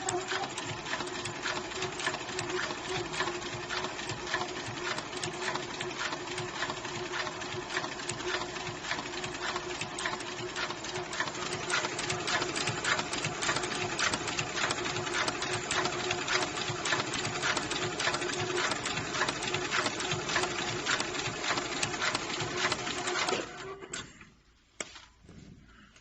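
Heavy-duty electronic pattern sewing machine for leather running at speed: rapid, even needle strokes over a steady motor hum. It stops a couple of seconds before the end.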